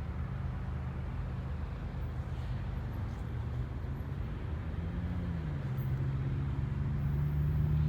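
Diesel locomotive engine running steadily, growing gradually louder, its hum dropping a little in pitch about five seconds in.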